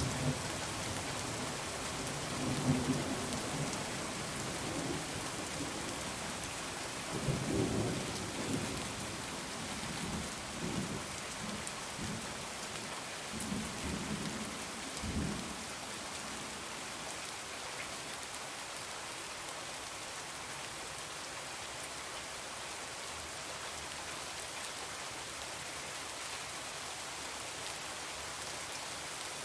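Heavy rain falling steadily, with thunder rumbling low in swells through the first half and dying away about halfway through, leaving only the rain.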